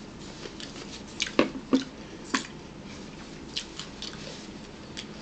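A person eating close to the microphone: chewing and wet mouth noises, with a handful of short clicks and smacks, the sharpest about one and a half and two and a half seconds in.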